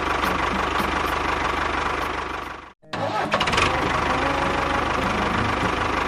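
Small engine of a DIY mini tractor or mini bulldozer running steadily with a low, rapid pulsing. It drops out abruptly a little under halfway through and comes straight back.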